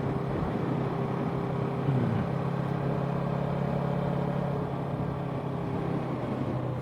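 Small Yamaha parallel-twin sport bike running steadily under way, the engine note holding a nearly constant pitch with a brief dip about two seconds in, over a rush of road and wind noise.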